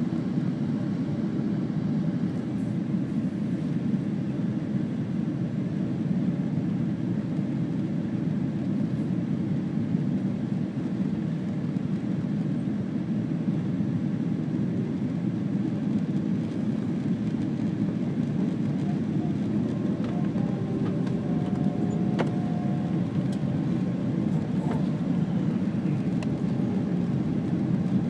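Steady cabin noise of an airliner in flight, a low, even roar of engines and airflow heard from a window seat. Faint thin tones surface briefly about three-quarters of the way through.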